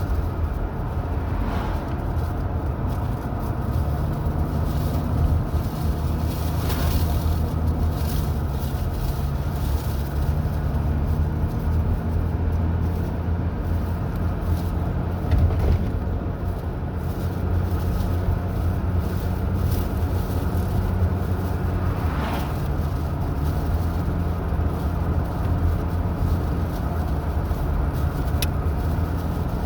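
Car being driven: a steady engine hum and road noise, the engine note stepping up and down slightly a few times.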